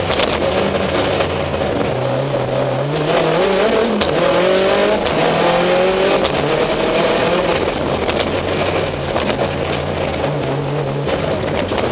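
Rally car engine heard from inside the cockpit, running hard with the revs climbing and falling again and again. A few sharp knocks cut through it.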